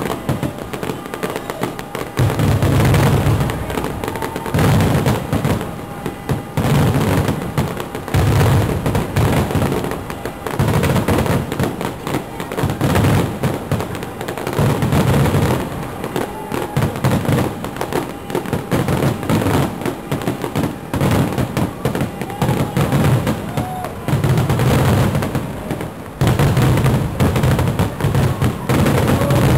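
Fireworks finale: a dense barrage of aerial shells bursting, with constant crackling and bangs and deep booms about every two seconds.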